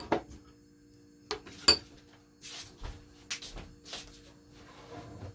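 A series of sharp clicks, knocks and short scrapes from small objects being handled and set down, the loudest click about a quarter of the way in, over a faint steady hum.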